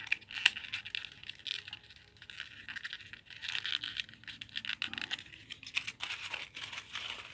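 Cardboard cigarette pack crinkling and rustling in the hands, a steady run of small clicks and crackles, as a folded tail piece is pushed into the paper plane.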